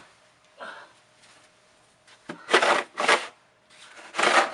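Snow shovel scraping and pushing through deep snow in a few quick rasping strokes, most of them in the second half.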